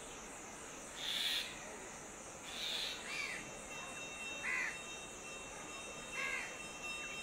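Birds calling in the forest canopy: about five short calls, one every second or two, the first two harsh and the later ones arched chirps. A steady high hiss runs underneath.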